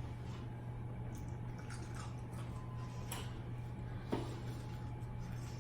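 Eating sounds: scattered soft wet clicks and smacks of chewing, over a steady low hum. One click about four seconds in is a little louder than the rest.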